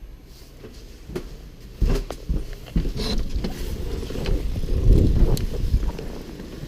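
Wind rumbling against the microphone, starting about two seconds in and growing louder, with a few sharp knocks and clicks.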